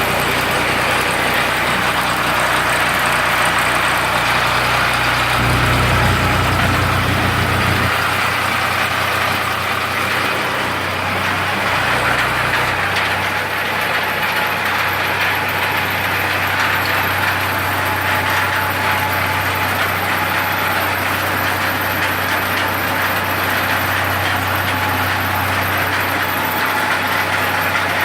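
Ford 3600 tractor engine running steadily, driving a generator through the PTO. Its low engine note shifts a couple of times, about five and thirteen seconds in, as the speed or load changes.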